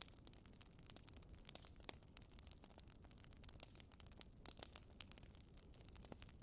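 Quiet wood fire crackling: irregular sharp pops and snaps, several a second, over a soft low rumble of the burning. The loudest snap comes about halfway through.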